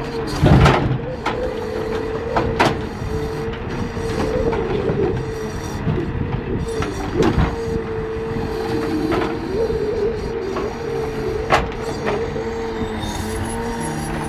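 Scania V8 truck engine running steadily to drive the loader crane, with a constant hydraulic whine, while logs knock sharply against each other and the wagon several times.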